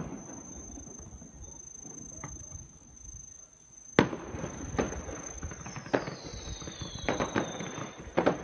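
A fireworks display: a sharp bang about four seconds in, then several more bangs and pops over the next few seconds, with faint falling whistles among them.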